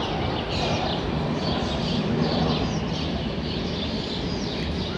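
Birds chirping repeatedly over a steady rustling background noise.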